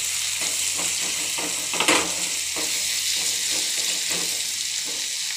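Chopped onion, tomato and green chilli sizzling in hot oil in a non-stick pan, being fried until the onion turns lightly brown. A silicone spatula stirs and scrapes through it in repeated short strokes, with one louder stroke about two seconds in.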